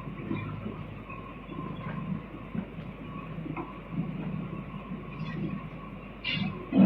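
Train running: a steady low rumble that rises and falls a little, with a faint thin tone above it.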